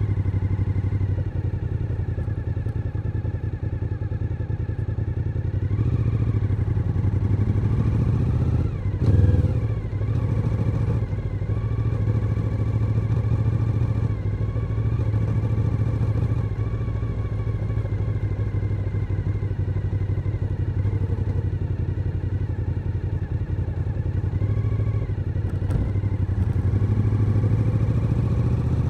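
Suzuki SV1000N's 90-degree V-twin engine running on the move at steady revs, the pitch rising a few times as it pulls. About 9 seconds in there is a brief louder burst with a quick drop and rise in pitch.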